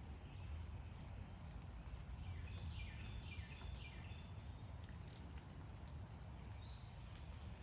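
Backyard songbirds chirping over a steady low background rumble. About two seconds in, a bird gives a run of four quick notes, each falling in pitch. Single short high chirps come now and then through the rest.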